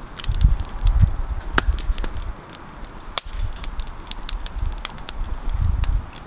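Campfire crackling, with many scattered pops and one sharp snap about three seconds in, over a low rumble that swells at the start and near the end.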